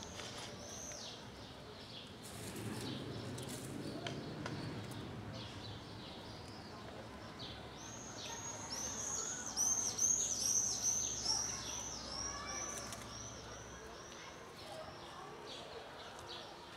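A small songbird chirping: high, arching notes, scattered at first, then a fast run of repeated chirps about three a second in the middle, over a faint low background hum.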